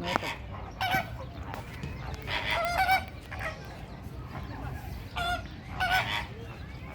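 Waterfowl calling repeatedly: about five loud, wavering calls, with the longest run about two and a half seconds in.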